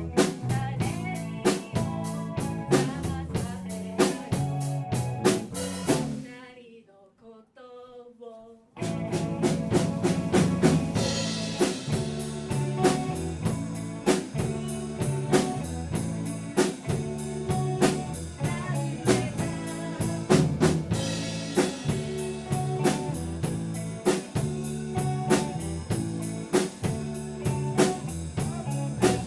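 Live rock band playing, with a drum kit beating steadily under electric guitar and bass. About six seconds in the band cuts out almost completely, leaving only faint notes, and then the whole band crashes back in about three seconds later.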